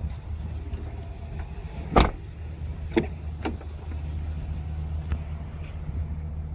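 Steady low hum of a 2019 Chevrolet Silverado 2500HD's 6.0-litre gas V8 idling. A few sharp clicks and knocks sound over it, the loudest about two seconds in.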